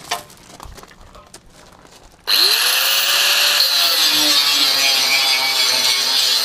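A few faint knocks, then about two seconds in a handheld electric power tool spins up with a rising whine and runs steadily at full speed. It is loud and hissing, with a strong high whine, as it works on the steel of a Land Rover Series III chassis.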